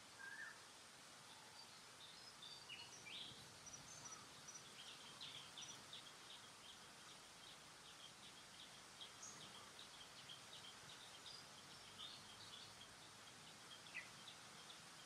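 Faint outdoor ambience with birds chirping: many short, high chirps over a steady low hiss, coming thickest from about five seconds in.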